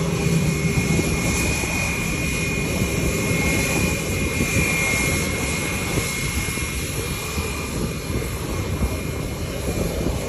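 Airbus A321 airliner's jet engines running, a steady heavy rumble with a high whine over it.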